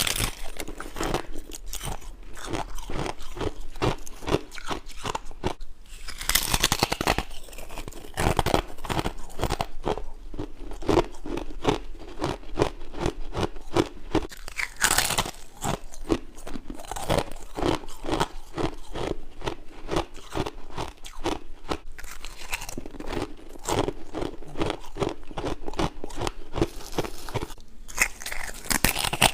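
Frost ice being crunched and chewed in the mouth: dense, rapid crackling crunches throughout, with louder fresh bites about six seconds in, around the middle and near the end.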